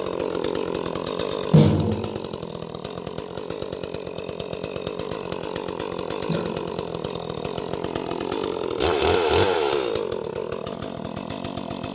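Small Echo two-stroke chainsaw running and cutting firewood, its engine pitch wavering as it works in the cut. A sharp knock about a second and a half in, and the saw runs louder for about a second near the end.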